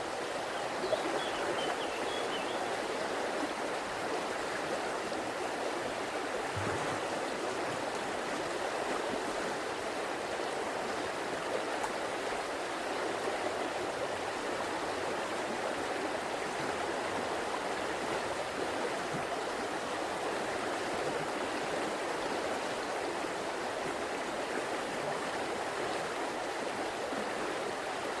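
River water flowing steadily, an even, unbroken sound of running water.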